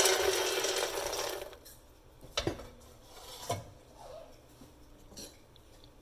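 Puffed fox nuts (makhana) rustling and rattling in a pan as they are stirred or tossed for dry-roasting, loud for about a second and a half, then dying down to a few light knocks against the pan.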